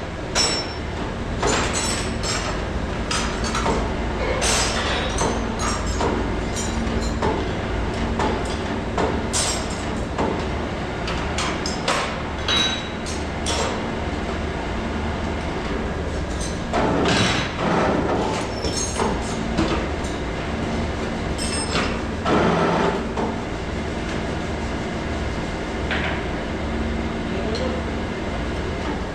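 Metal transmission valve-body parts clinking and knocking as they are handled and cleaned, over a steady low machinery hum. Two longer rushing bursts of noise come about two-thirds of the way through.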